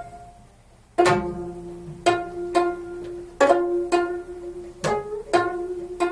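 Gayageum played solo: a plucked note rings and dies away, then after about a second's pause a run of single plucked notes follows, roughly two a second, each ringing on.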